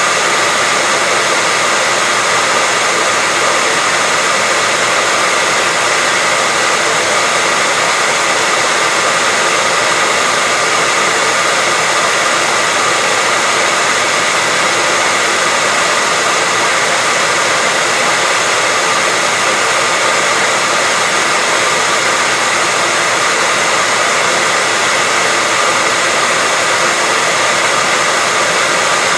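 Hair dryer running continuously: a steady airy rush of fan and airflow with a faint steady whine, unchanging in level.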